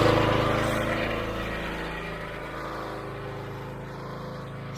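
Small gasoline engine on power-cleaning equipment running steadily. It is loud at first and drops off over the first couple of seconds, then keeps running lower.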